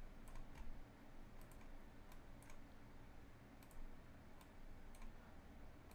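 Faint computer mouse clicks, about ten of them at irregular intervals.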